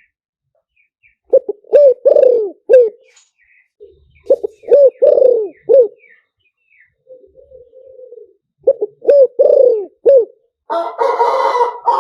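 Spotted dove cooing: three phrases of its low, rolling coo, each a run of several notes. Near the end a rooster starts crowing over it.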